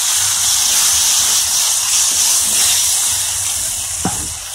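Chopped tomatoes sizzling in hot oil with fried onion and spices in a kadhai, stirred with a wooden spatula: a steady loud hiss that eases a little near the end.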